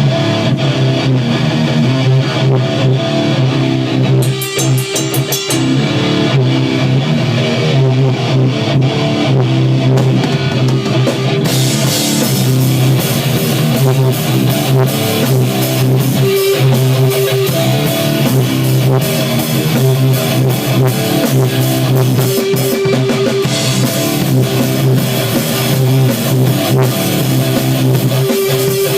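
Rock music with guitar and a drum kit playing, loud and steady, the cymbals getting brighter about twelve seconds in.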